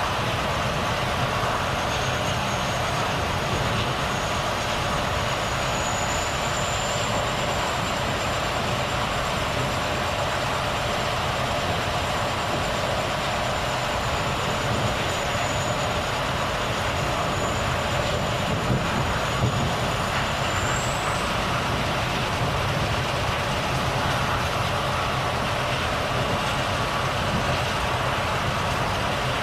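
Volvo FH truck running steadily at road speed: an even engine drone with tyre and road noise. A faint high whistle holds for much of the time and rises slightly just before it stops.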